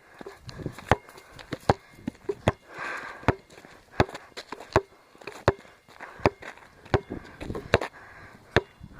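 Basketballs bouncing on a hard surface: a string of sharp thuds at an uneven pace, about one or two a second, sometimes two close together.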